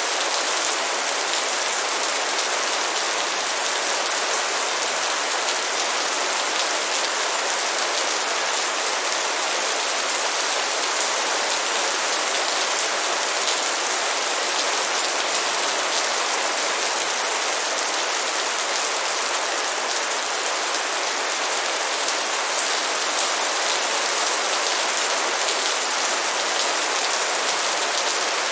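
Light rain falling steadily, an even hiss of many drops with scattered individual drop ticks.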